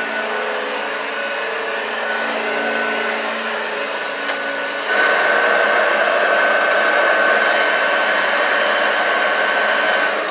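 Hoover Junior U1206 upright vacuum cleaner running on carpet, its motor and agitator giving a steady whine. About halfway through it gets louder and the high whine turns sharper.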